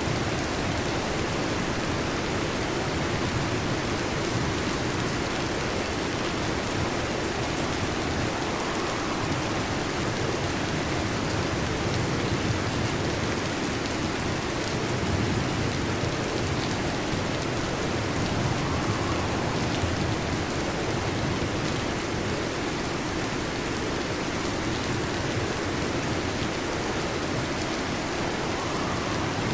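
Heavy rain drumming steadily on a metal roof, a dense even patter with no thunder.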